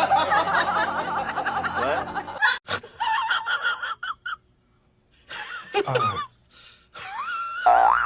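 Laughter, loud and wavering for the first two seconds, then broken into short bursts with a brief silent gap; a wavering high tone starts near the end.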